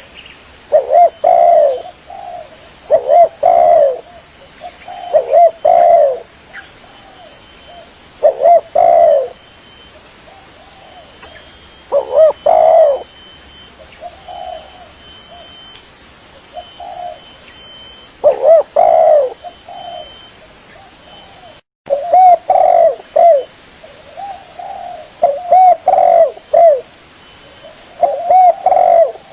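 Spotted dove (tekukur) cooing: loud groups of short low coos repeated every second or two, with a brief cut in the sound about two-thirds of the way through.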